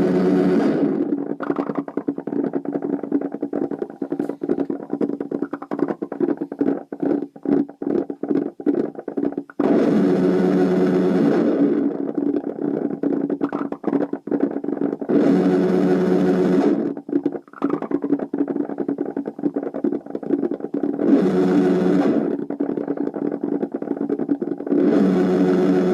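MEEKS Dhran drone synthesizer playing a noisy, distorted drone: a steady low multi-oscillator hum that swells into loud hissing noise bursts every five seconds or so, with rapid stuttering crackle between the swells.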